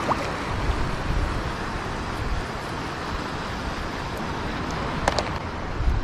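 Wind buffeting the microphone over a steady wash of surf at the shoreline, with a couple of brief clicks about five seconds in.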